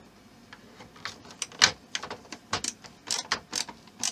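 Small plastic model parts clicking and tapping against each other as a piece is fitted onto the base: a run of sharp, irregular clicks, the loudest about a second and a half in.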